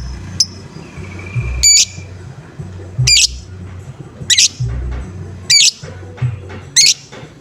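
Lovebird giving its harsh, repeated 'ngoek-ngoek' call: five short, high squawks about 1.3 seconds apart, over backing music with a low pulsing beat.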